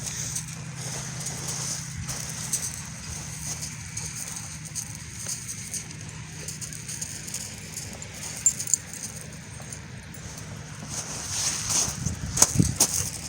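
A dog at play, with scattered light clicks and knocks over a steady low hum; a burst of louder knocks comes near the end.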